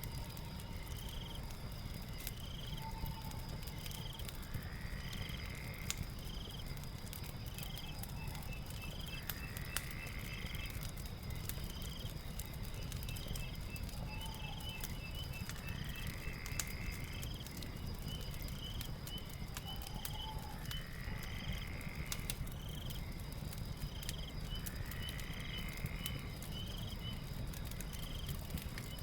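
Night ambience of insects and frogs: a steady high drone, short chirps repeating about every second and a half, and a rising call every few seconds, over the low rumble and scattered crackles of a fire.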